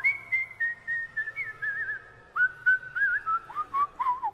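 A person whistling a wandering tune: one clear line of short notes with little wavering trills, stepping gradually lower in pitch.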